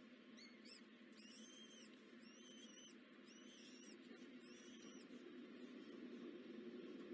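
Faint high chirps from a small bird, a run of about five arched calls roughly one a second, over a steady low hum.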